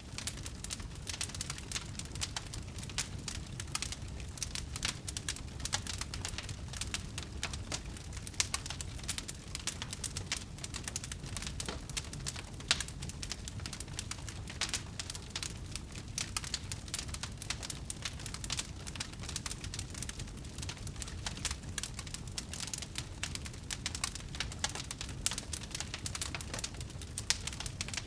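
Wood fire in a fireplace crackling steadily: a dense run of small snaps and pops over a low, even rumble.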